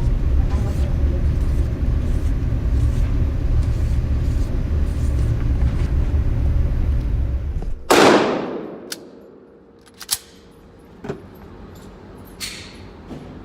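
A steady low rumble for about eight seconds, then a single 9mm pistol shot with a long ringing tail, followed by a few faint clicks.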